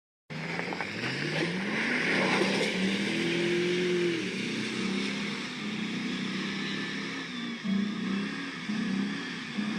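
A motor vehicle's engine revving, starting abruptly a moment in: its pitch climbs, holds, then rises and falls again and again.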